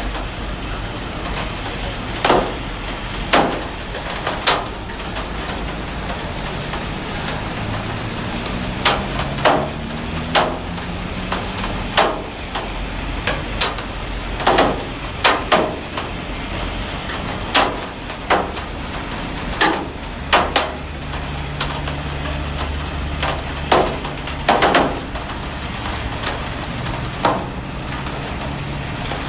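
Heavy rain falling steadily, with irregular sharp knocks every second or two, like big drops or drips striking a hard surface. A low hum runs faintly underneath.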